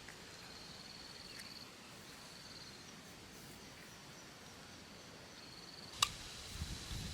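An insect trilling at a high pitch in short stretches over a faint steady hiss. A single sharp click comes about six seconds in, followed by a few low knocks.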